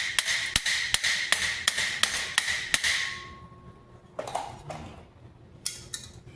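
Hammer blows on the steel of a great helm, about eight quick even strikes at roughly three a second over a ringing metallic tone. The hammering stops about three seconds in, followed by a couple of light metal clinks.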